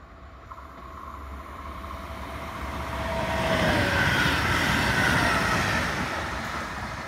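A train passing by: its sound builds to a peak about four seconds in and then fades, with a whine that drops in pitch as it goes past.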